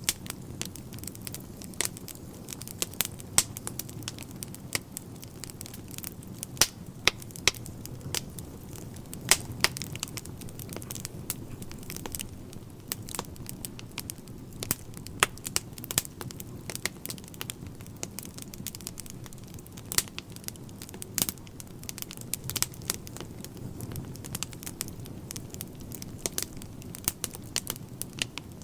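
Wood fire burning in a fireplace: irregular sharp crackles and pops from the burning logs over a steady low rush of the flames.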